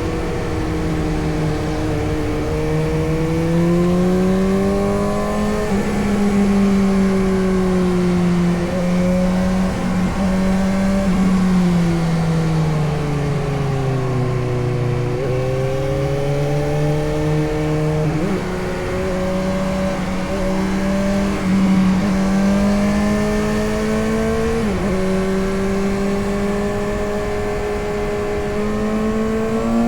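Suzuki GSX-S750's inline-four engine pulling a motorcycle along, its pitch climbing under acceleration and stepping at gear changes about four times. It eases off and falls in the middle, then picks up again, over a low rumble of wind on the microphone.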